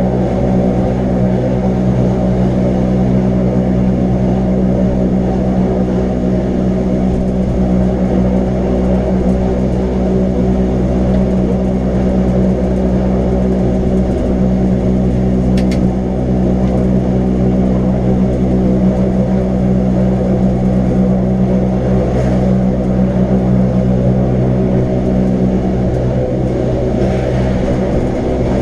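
Wengernalp rack-railway electric train running, a steady hum of motors and gearing over a rumble that holds the same pitch throughout, with a single short click about halfway through.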